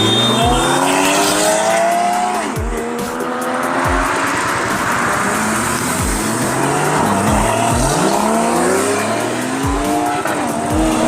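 High-revving car engines, their pitch rising again and again and dropping back as they rev or shift up. Under them runs music with a deep bass beat.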